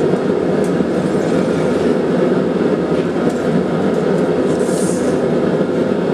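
Steady low roar of a blacksmith's forge running, even and unbroken.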